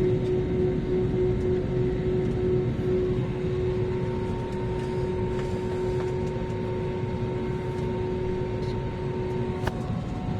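Airliner cabin noise during taxi after landing: a steady engine and air-system rumble with a steady whine. A few small clicks, one sharper near the end.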